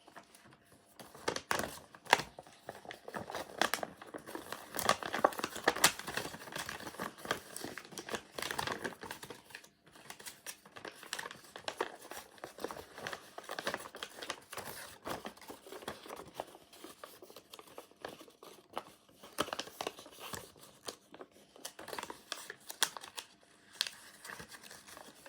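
Sheet of paper rustling and crinkling as it is handled and folded by hand, with many irregular crackles.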